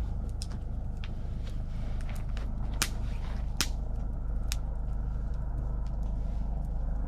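Wood campfire crackling in a fire pit, with scattered sharp pops, two louder ones near the middle, over a steady low rumble.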